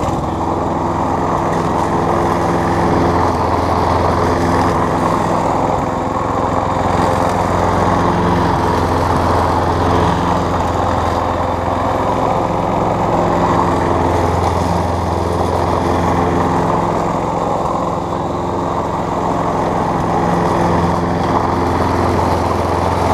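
Craftsman 6.5 horsepower push mower engine running steadily after its repair, with a new throttle cable fitted.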